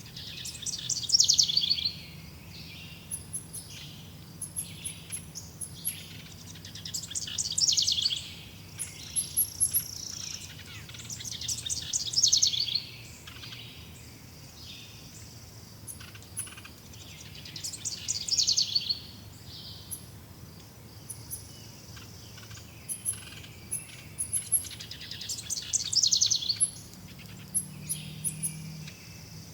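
Songbirds singing outdoors. One bird repeats a rapid trilled song phrase of about a second, roughly every five to six seconds, while short high thin chirps come from others in between.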